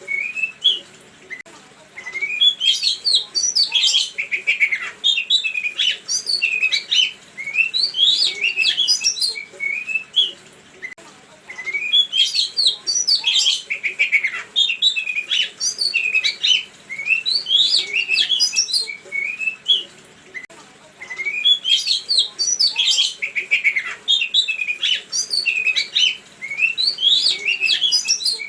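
A songbird singing a fast, varied song of chirps and trills, in bouts of about seven seconds with short pauses, the same bout repeating three times as a looped recording. It is a 'pancingan' lure recording, played to make caged songbirds answer.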